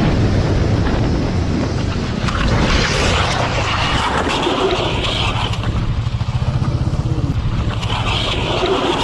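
Motorcycle engine running, with heavy wind noise over the microphone.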